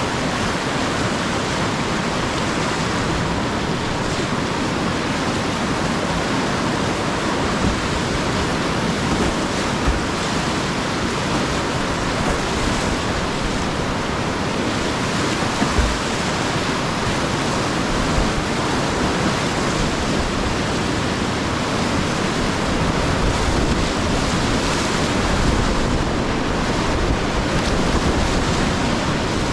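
Whitewater rapids rushing steadily: a loud, even rush of water with a few brief low thumps.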